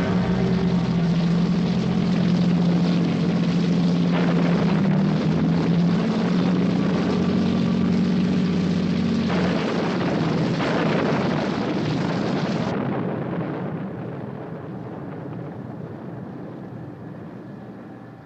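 Steady engine drone with a low hum, swelling in brief rushes. About two-thirds of the way through it turns muffled and fades.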